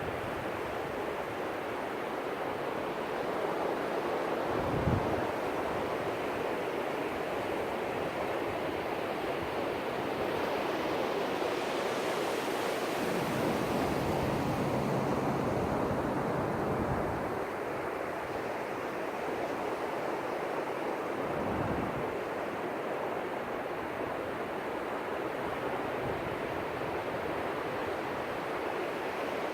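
Ocean surf washing onto the beach, a steady roar of breaking waves that swells louder for several seconds midway and then eases, with a few brief low gusts of wind on the microphone.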